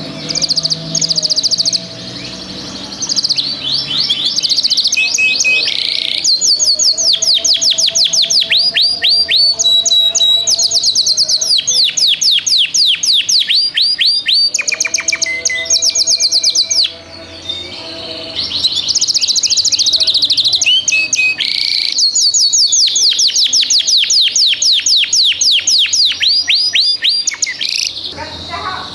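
Domestic canary singing: long rolling trills of rapid repeated downward-sweeping notes, phrase after phrase, with brief pauses between phrases.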